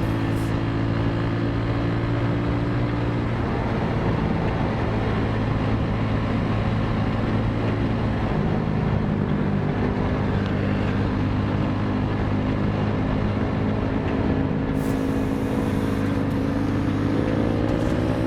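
Motorcycle engine running steadily on the move. Its pitch drops a few seconds in and rises again near the end as it picks up speed.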